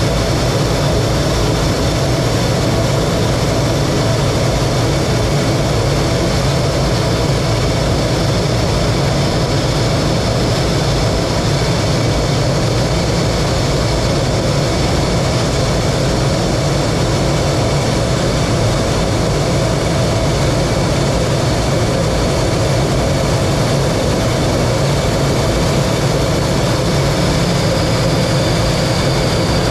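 T-33 jet trainer's Allison J33 turbojet running steadily in flight, heard from the cockpit: a dense, even rush of engine and air noise with a high steady whine on top. The whine sags slightly in pitch near the end.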